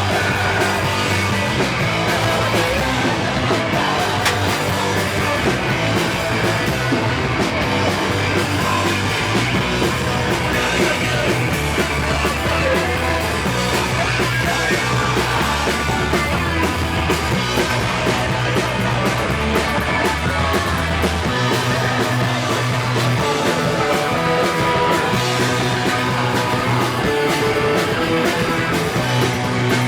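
Punk rock band playing live and loud, with a bass line moving between notes under dense guitar and drums.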